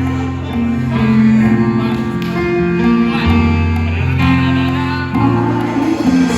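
Instrumental music with guitar over a bass line that steps from note to note, with held notes above.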